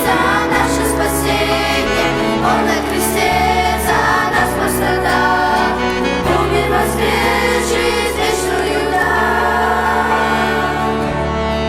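Church choir singing a hymn in Russian over sustained low accompanying notes.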